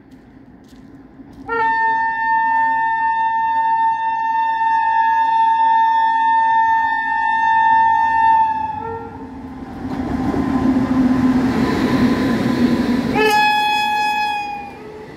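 An express train's locomotive horn sounds one long, steady blast of about seven seconds as the train approaches at speed. The locomotive and coaches then rush past close by, and a second, shorter horn blast comes near the end.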